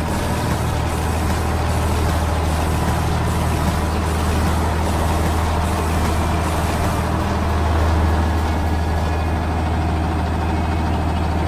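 Heavy vehicle engine running steadily: a low drone that swells slightly about eight seconds in.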